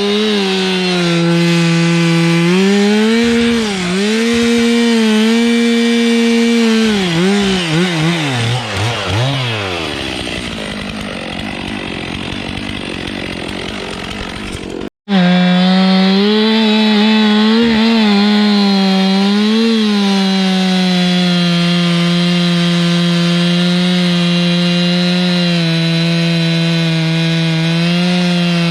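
Two-stroke chainsaw running at high revs, its pitch dipping and recovering as it loads in a cut, while felling pine trees for milling. About eight seconds in, the engine tone wavers and falls away into a rough noise; after a sudden break it is running steadily again at full speed.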